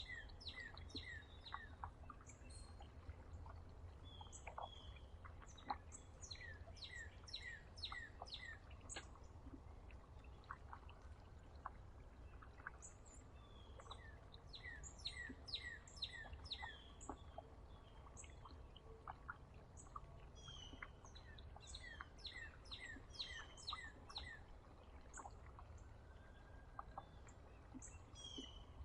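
Faint songbirds chirping and calling at a feeder, with one bird repeating a quick run of short falling notes every several seconds, over a steady low background rumble.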